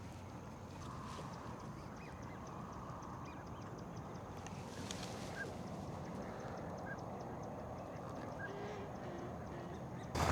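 Faint waterfowl calls at a pond, a few short calls over a steady outdoor background.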